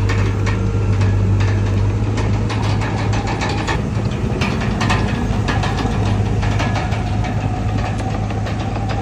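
Komatsu D31PX bulldozer's diesel engine running steadily under work, with frequent short knocks and clatter over it.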